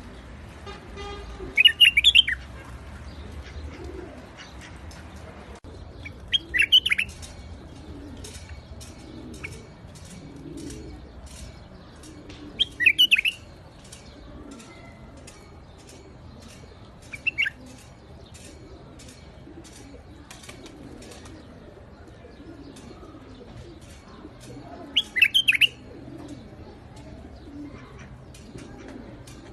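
White-eared bulbul singing short, loud, warbling phrases, five in all, each under a second and spaced several seconds apart. A faint, steady run of ticks goes on between them.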